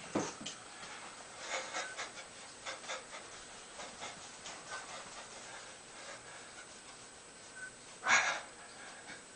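A person breathing hard with effort during a dumbbell exercise: short irregular breaths, then one loud, longer exhale about eight seconds in.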